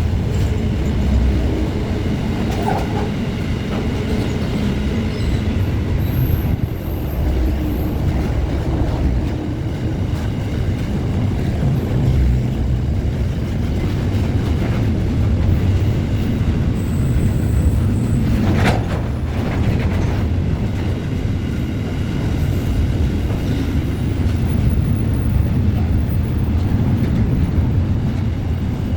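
A moving train, a steady low rumble of wheels on the rails, with a single sharp click about two-thirds of the way through.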